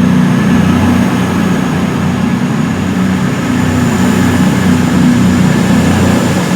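A train's engine running steadily: a loud, low drone with a faint high whine above it.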